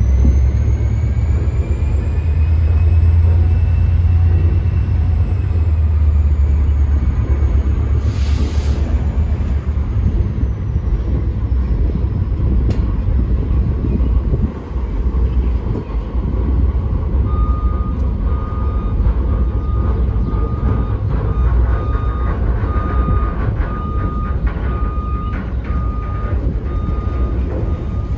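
Work train of empty gondola cars rolling slowly on jointed track: a steady low rumble of wheels on rail, with a high wheel squeal that rises and then falls over the first several seconds. Past the middle, a backup alarm starts beeping steadily, about once a second.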